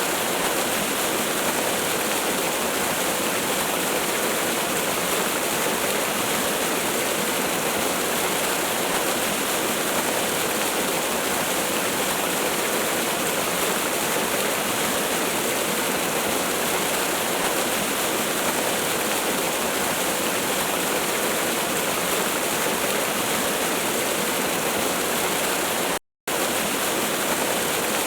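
Waterfall rushing, a steady even roar of water. Near the end it cuts out to silence for a split second and comes straight back.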